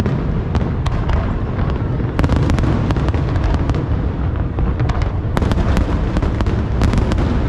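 Aerial fireworks display: a continuous low booming of shell bursts with many sharp cracks and crackles on top.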